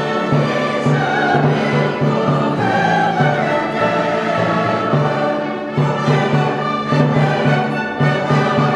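Orchestral music with bowed strings over a repeated low bass note.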